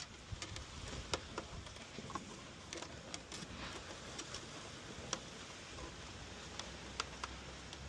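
Faint, irregular small clicks and taps of plastic parts being handled and pressed together while new flaps are worked into a Hayward PoolVac Ultra suction pool cleaner.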